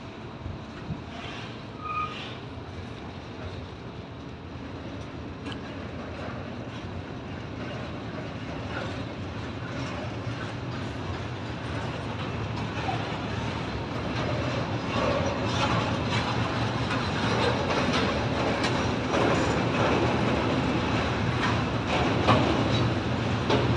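Freight train of rail tank wagons rolling past, wheels clattering over the rail joints. It grows steadily louder, with the clicks coming thicker in the second half.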